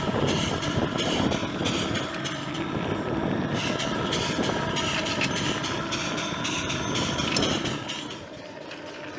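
A vehicle running steadily, its engine noise dropping in level about eight seconds in.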